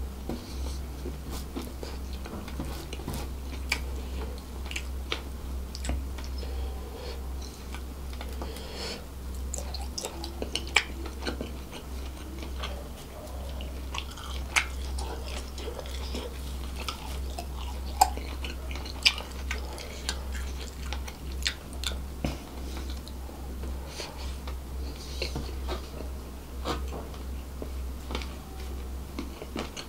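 Close-miked chewing of seafood fried rice eaten by hand, with many short wet mouth clicks and a few louder ones. A steady low hum runs underneath.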